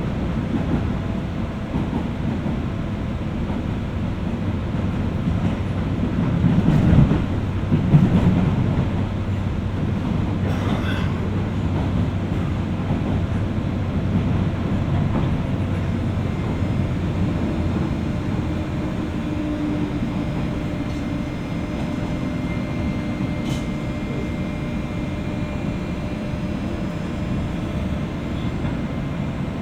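Running sound of a JR West 201 series electric train heard inside the motor car above its armature chopper: a steady rolling rumble with a faint hum. Two heavy knocks come about seven and eight seconds in, like wheels passing over rail joints or points.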